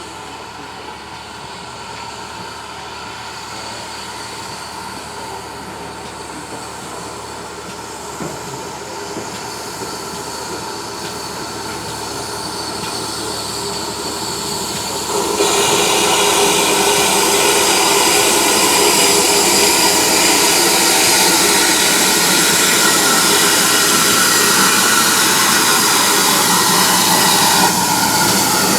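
A train running on the rails, growing steadily louder as it approaches, with a mix of steady tones over the running noise; about fifteen seconds in it suddenly becomes much louder and stays so.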